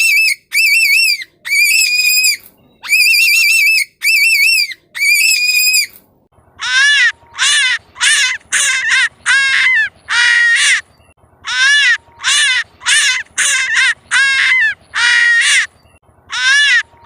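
Rabbit squealing: about six high, wavering squeals, then a quicker run of shorter squeals, each falling in pitch, about two a second, with a short pause near the end.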